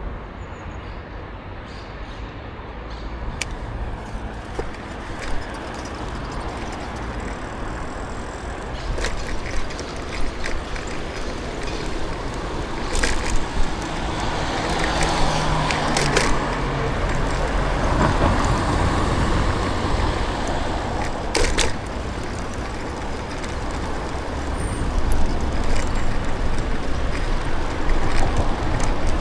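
City street traffic heard from a moving bicycle: a steady low rumble of cars and tyres that swells as vehicles pass through the middle stretch, with a few sharp clicks.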